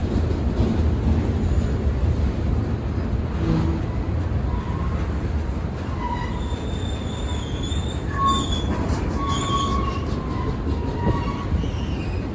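Freight train rolling past with a steady low rumble of its cars, and wheels squealing in thin, shifting high tones from about five seconds in.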